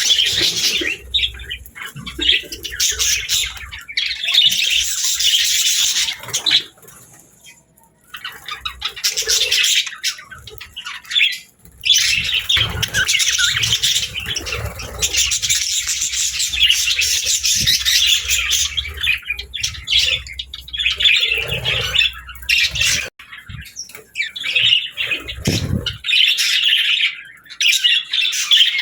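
Budgerigars chattering and squawking continuously, broken by a pause about seven seconds in and another brief one near the middle.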